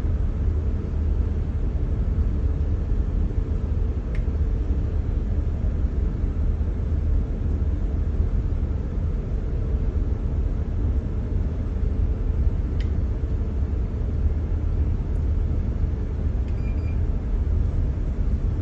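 Steady low hum and rumble of running HVAC equipment, such as a chiller or fan-coil unit, with a couple of faint ticks, one about four seconds in and one near thirteen seconds.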